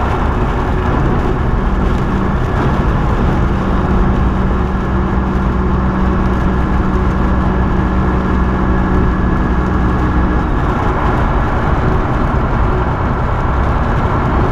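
Semi truck's diesel engine droning steadily under load, heard from inside the cab with road and wind noise; a steady hum in the drone fades about ten seconds in.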